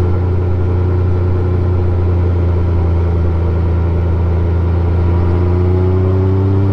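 Honda Gold Wing GL1500's flat-six engine running steadily under way, its pitch rising slightly near the end.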